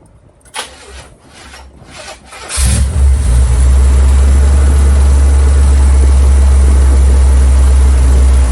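Oldsmobile Cutlass V8 starting after a few light knocks of cranking, catching about two and a half seconds in and settling into a loud, steady idle.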